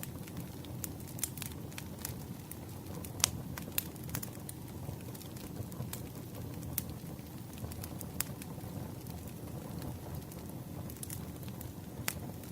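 Campfire crackling: a steady low rumble of burning wood with irregular sharp pops and snaps, the loudest pop about three seconds in.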